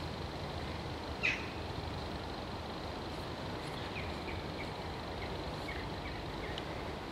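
Steady outdoor background with birds calling: one loud, sharp call about a second in, then a quick run of short chirps, about three a second, through the second half.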